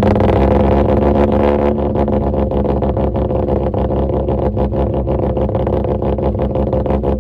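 Mazda RX-8's 13B rotary engine running loud and steady.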